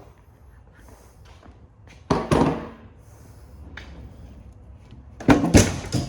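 Knocks and clatter of metal parts and tools being handled while a printer is taken apart: one sharp knock about two seconds in, then a burst of several louder clanks near the end.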